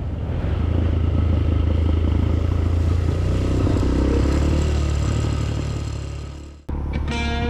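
Motorcycle engine running steadily as the bike rides along, fading in at the start with a slight rise and fall in pitch midway. It cuts off abruptly near the end, replaced by guitar music.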